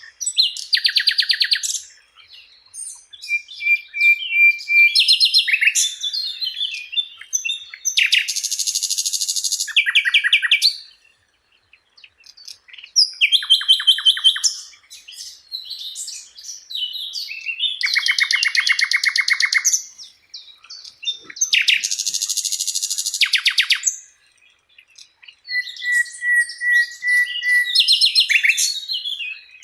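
Sikatan londo (flycatcher) singing a long, varied song: rapid buzzy trills and chattering phrases broken by short pauses, with a few steady whistled notes held for a second or two.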